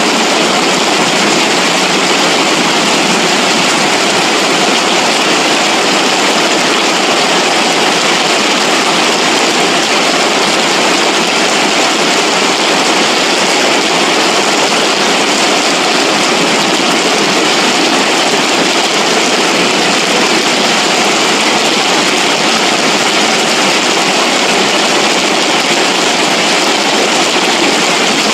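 Floodwater rushing down a ravine in a steady, loud roar.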